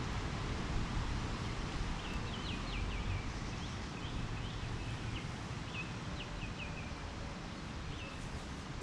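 A small bird chirping in quick runs of short high calls, over a steady hiss and low rumble.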